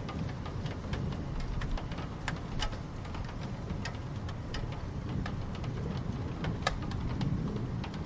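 Steady rain, with many irregular sharp drops tapping close by over a continuous low rumble.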